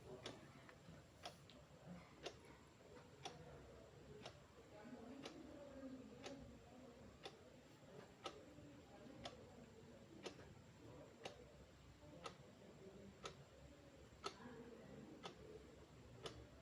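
Faint ticking of a countdown timer sound effect, one tick about every second, marking the time to guess the answer.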